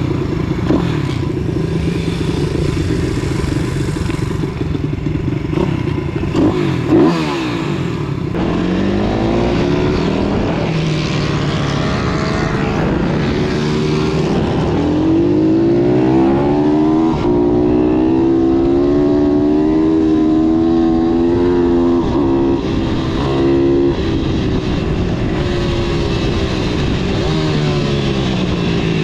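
Pit bike engines revving on a race track, the pitch climbing and dropping again and again and held high for several seconds in the middle, with a second engine passing by.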